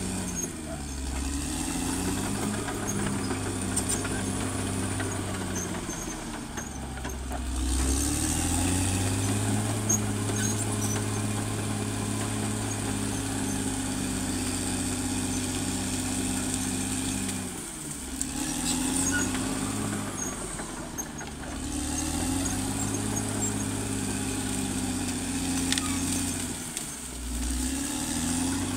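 Caterpillar D6R XL bulldozer's diesel engine running under working load, its pitch dropping and climbing back several times as the load changes.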